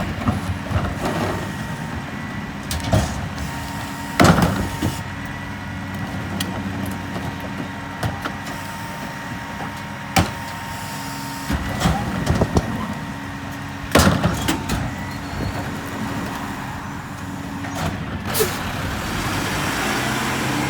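Mack MRU garbage truck with a McNeilus rear-loader body running steadily, with several loud sudden bangs about 4, 10, 12, 14 and 18 seconds in.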